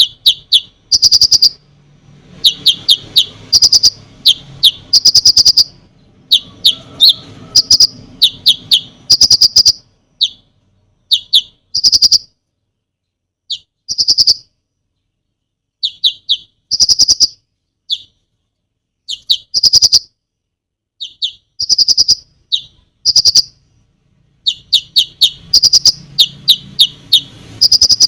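Konin songbird singing vigorously: loud clusters of short, sharp, rapid notes, repeated phrase after phrase with brief pauses between them.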